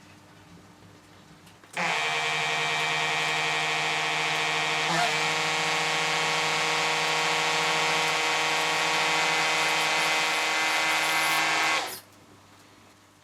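A small electric power tool motor runs at a steady pitch for about ten seconds, with a brief wobble about three seconds after it starts, then stops.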